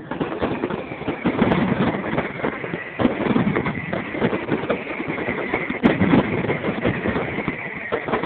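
Fireworks going off in a dense, continuous run of crackling and popping, with a thin high tone running through it.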